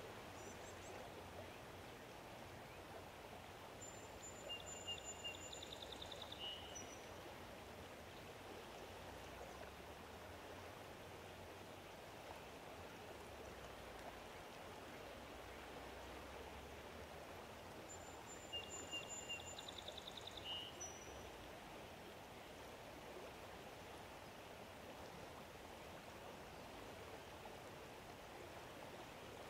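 A songbird sings the same short phrase twice, about fourteen seconds apart: high thin whistles and a quick trill. Under it is a faint, steady outdoor rush.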